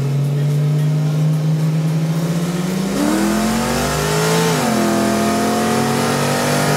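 Holden VL Commodore's turbocharged RB30 straight-six running at low speed and slowly rising in pitch. About three seconds in it pulls harder and rises, then drops back a second or so later like a gear change, and runs steady again.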